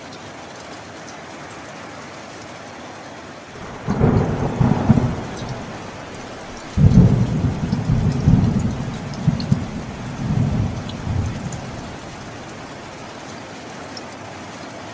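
Steady heavy rain with thunder. A sharp thunderclap rumbles about four seconds in, then a louder rolling peal starts about seven seconds in and dies away after several seconds, leaving only the rain.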